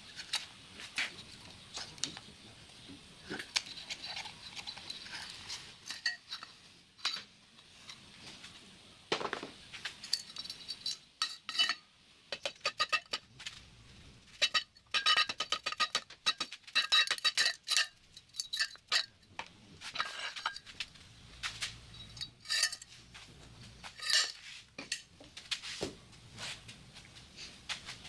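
Metal clinking and clanking as hand tools and loose steel parts are handled: many short sharp knocks, some ringing briefly, coming thickest in the middle stretch.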